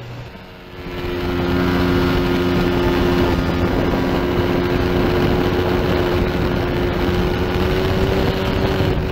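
Small-displacement race motorcycle engine heard from onboard, running steadily at high revs, with wind rushing past the bike. It swells up about a second in.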